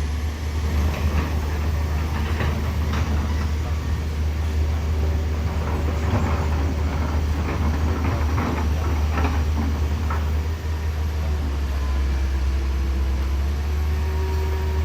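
A vehicle engine running steadily with a low rumble, with scattered knocks and rattles over it, busiest in the middle.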